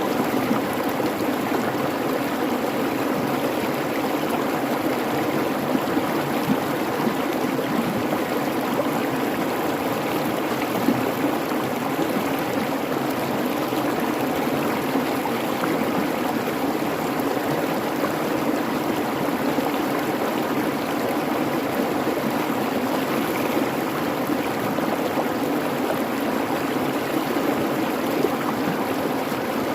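Creek babbling steadily over rocks, a continuous rushing and splashing with small irregular splashes.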